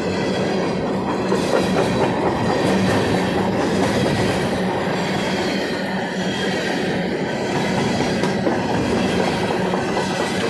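Empty coal hopper cars of a long freight train rolling past, a steady loud rumble and clatter of wheels on the rails.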